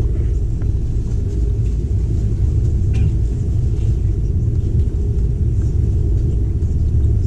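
Passenger train running along the track, a steady low rumble.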